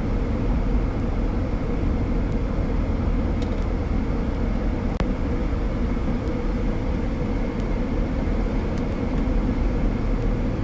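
Steady road and wind noise inside a moving car's cabin, strongest in the low end. There is a single faint click about five seconds in.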